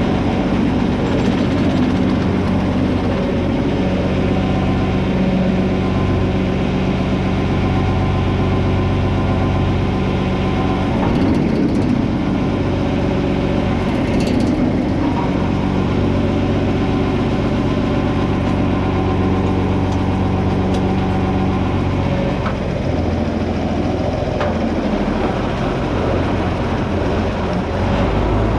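John Deere 4320's six-cylinder diesel engine running steadily just after being started, with a slight change in its pitch about 22 seconds in.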